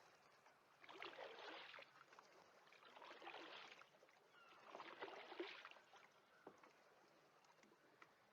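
Faint oar strokes in the water from a small rowboat, three strokes about two seconds apart.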